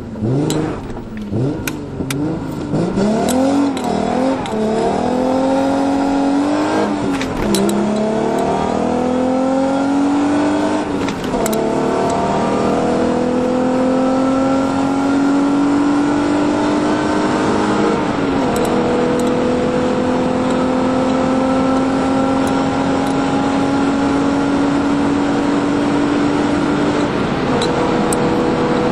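Alfa Romeo 75's V6 engine under hard acceleration through the gears: the pitch climbs in each gear and drops at each upshift. The shifts come further apart as speed builds, the top gears pulling slowly upward for many seconds.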